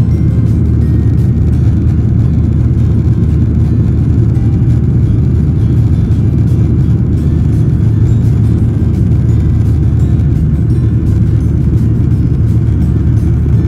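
Jet airliner engines and airflow heard from inside the cabin as a loud, steady, low rumble.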